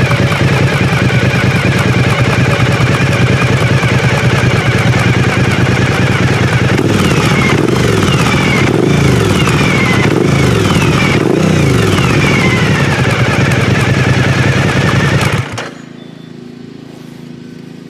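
Suzuki DL1000 V-Strom's V-twin engine running through a Holeshot Performance aftermarket exhaust. It holds a steady idle, then gets about five quick throttle blips, each rev rising and falling back. The engine sound drops away sharply about two seconds before the end.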